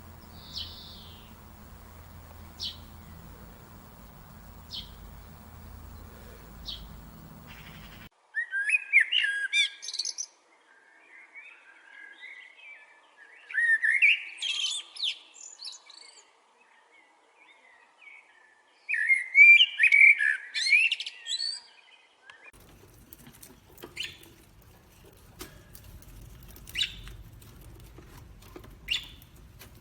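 Bird calls: a few short single chirps, then three outbursts of rapid chirping song, each lasting two or three seconds, then more short sharp calls near the end.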